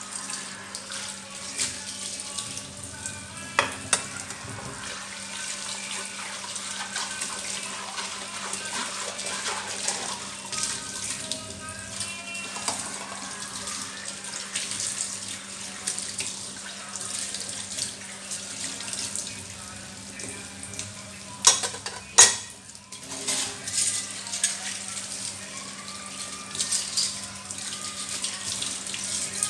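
Water running from a tap into a kitchen sink, with a few sharp clinks of dishes, the loudest pair about two-thirds of the way through.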